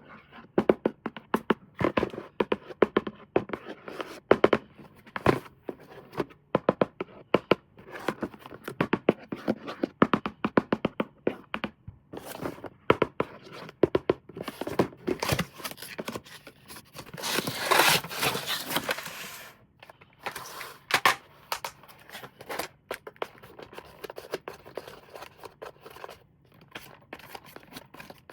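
Toy packaging and plastic toy parts handled during an unboxing: many quick clicks, taps and small knocks, with a louder scraping noise lasting about two seconds about two-thirds of the way through.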